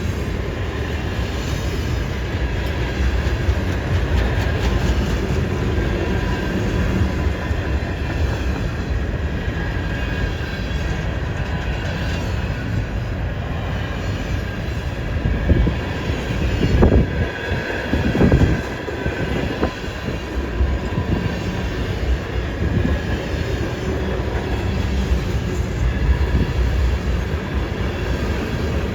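Freight cars of a CN train rolling past on a curve: a steady rumble of wheels on rail with a thin, steady wheel squeal from the curve over it. It swells louder for a couple of seconds a little past the middle.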